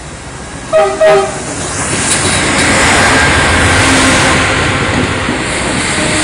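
Shoreline East passenger train's horn gives two short blasts about a second in, then the train rolls past with a steady rumble and clatter of wheels on rails.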